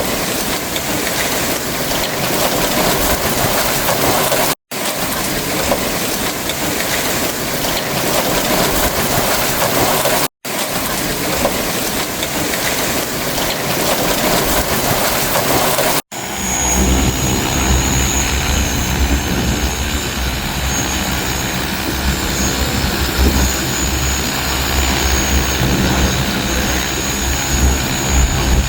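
A steady rushing noise, cut off sharply twice, gives way about 16 seconds in to a large delivery drone's propellers and motors running steadily, with a deep hum and a high, even whine.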